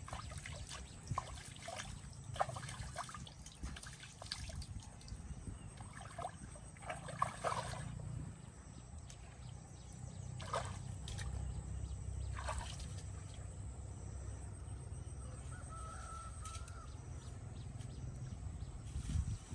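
Water trickling, with irregular small splashes and clicks over a steady low rumble; the splashes are busiest in the first half and thin out after.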